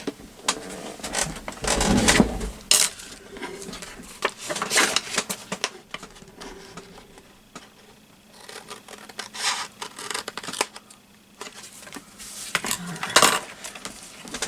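Craft tools and paper being handled on a tabletop: scattered sharp clicks and knocks of small hard objects, with a heavier thump about two seconds in.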